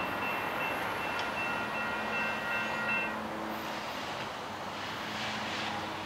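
Union Pacific work train running past at a distance: a steady rumbling noise, with a repeating high ringing that stops about halfway through.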